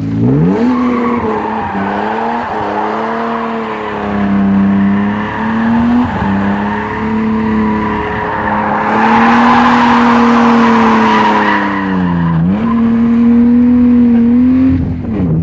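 A car engine revving hard and held at high revs while the tyres skid and squeal. The revs climb quickly at the start, waver through the slide and dip briefly twice near the end. The tyre noise is heaviest in the middle.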